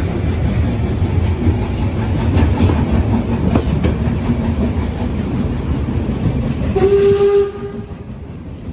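Narrow-gauge steam train running with a loud, rough rumble, then a short blast of its steam whistle near the end, after which the running noise drops away.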